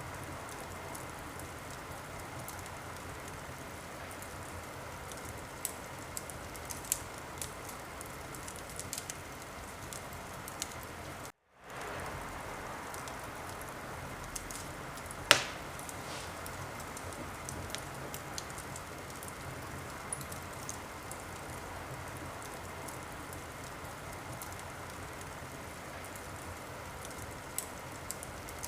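Wood fire in a fireplace crackling over a steady hiss, with scattered small pops and one sharp, louder crack about halfway through. The sound drops out for a split second a little before the middle.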